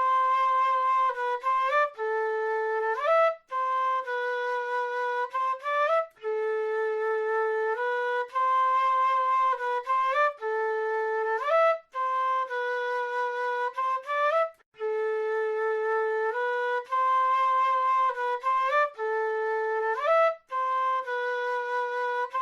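South American flute playing a short melodic phrase over and over: held notes followed by quick upward slurs, the phrase repeating about every four seconds with short gaps between.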